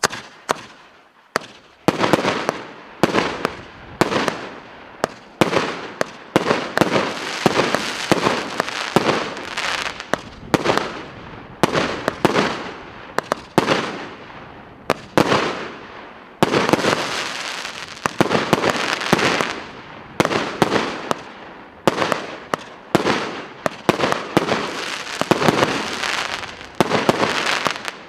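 Consumer fireworks battery «Попутный ветер» (ОТС 5130) firing shot after shot, about one a second: each a sharp report followed by a crackling spray that fades, the shots overlapping without a pause.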